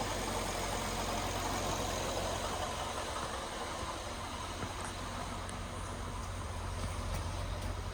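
2009 Acura TL's 3.5-litre V6 engine idling steadily.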